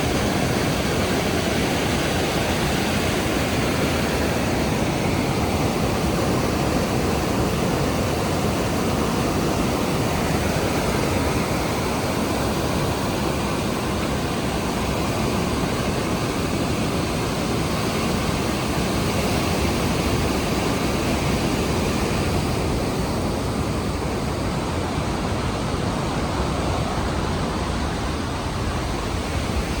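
Rhine Falls, a large waterfall, pouring water in a loud, steady rush heard close by.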